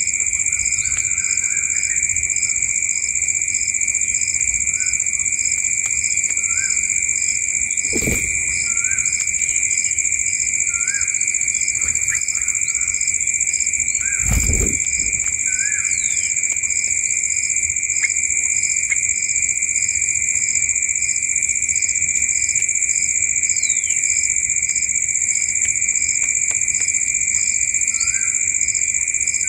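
Steady high-pitched chorus of calling animals, a continuous shrill drone with a regular pulse about once a second, with short rising chirps every couple of seconds. There are two dull knocks, about eight seconds and fourteen seconds in.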